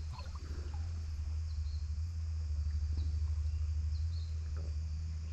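Outdoor creekside ambience: a steady low rumble, with small birds giving short high chirps now and then.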